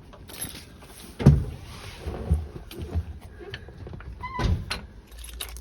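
Knocks and clunks of the Land Rover Defender's doors and metal body panels being handled, with one sharp knock about a second in, lighter knocks after it, and a short squeak a little before the end.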